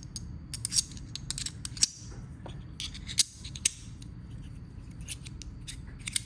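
Small metal parts of a fidget slider clicking and scraping as they are handled and fitted onto the slider's track: a string of irregular, sharp metallic clicks.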